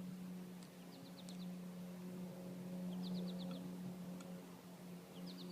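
A small bird calling three times, each call a quick run of four or five short high notes, over a steady low hum.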